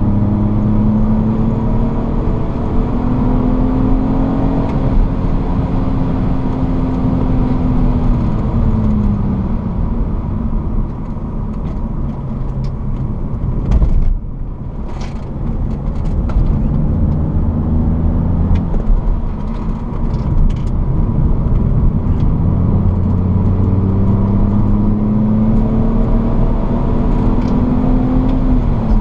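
BMW E46 330Ci's straight-six engine heard from inside the cabin at track speed, over wind and road noise. Its note climbs under hard acceleration, falls off about eight seconds in, runs lower through the middle with a brief knock about fourteen seconds in, then climbs again from about twenty-two seconds and drops near the end.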